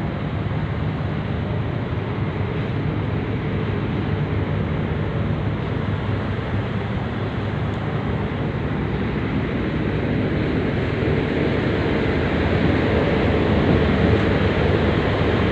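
Steady drone of a ferry's engines heard on board, a low hum under a rush of wind and sea water, growing a little louder over the last few seconds.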